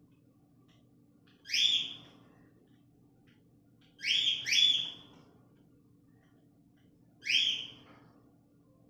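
A bird giving short whistled calls: one about one and a half seconds in, a quick pair about four seconds in, and another near the end. A faint steady low hum runs underneath.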